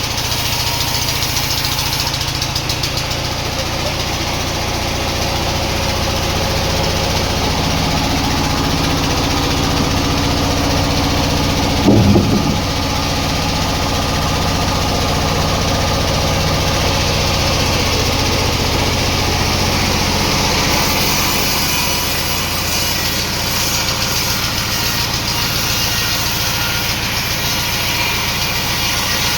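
Sawmill machinery running steadily with a continuous engine-like hum, and a brief louder burst about twelve seconds in.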